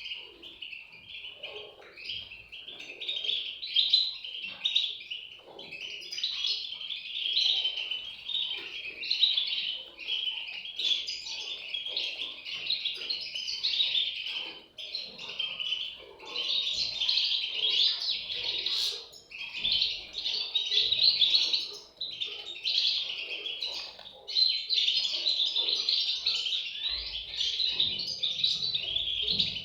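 European goldfinch chicks calling: a dense chatter of high chirps in bouts of a few seconds with short breaks between them.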